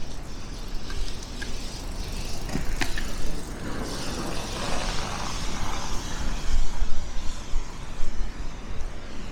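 A car drives past, its tyre noise swelling and fading over a few seconds, over a low gusty rumble of wind on the microphone. A few light clicks come in the first three seconds.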